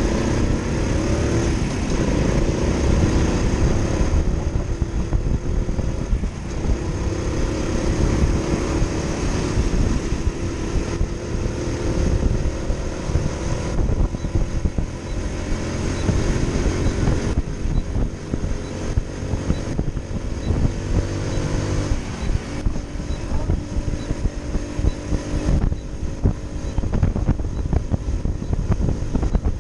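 Motorcycle engine running while riding, its pitch rising and falling with the throttle and dropping sharply twice, about six seconds in and again near twenty-two seconds.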